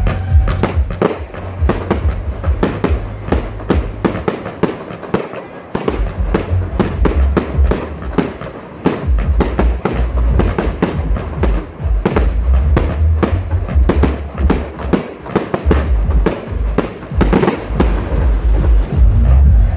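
Fireworks display: a dense run of shell bursts and crackling reports, several a second, over a deep low rumble.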